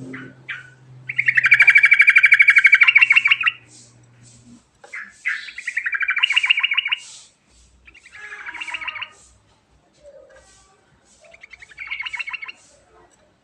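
Yellow-vented bulbul singing in four bursts of fast, rolling trilled notes. The first and loudest lasts about two and a half seconds, and three shorter bursts follow with pauses between. A faint low hum sits under the first few seconds.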